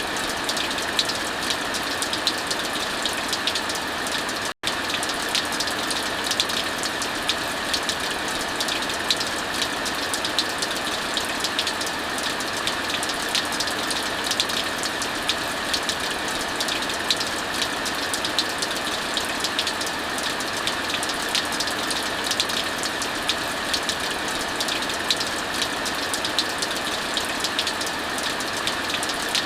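Steady heavy rainfall mixed with a crackling wood fire, its frequent small sharp pops scattered irregularly over the rain's hiss. The sound cuts out for an instant about four and a half seconds in.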